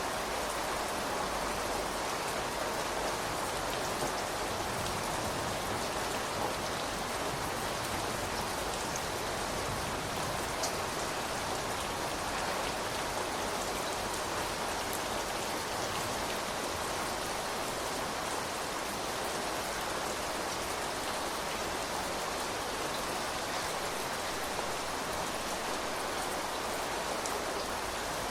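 Steady rain falling on surfaces, with an even hiss and occasional separate drop ticks.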